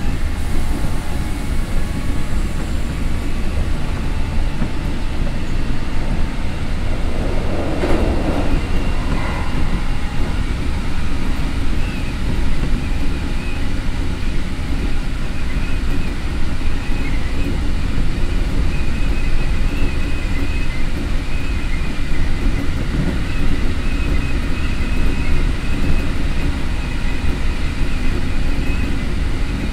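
Keikyu 1500 series electric train, converted to Toyo Denki IGBT-VVVF traction equipment, heard from inside the car while running at speed: a steady rumble of wheels on rail. A brief louder rush comes about eight seconds in, and a faint high whine from about twelve seconds on.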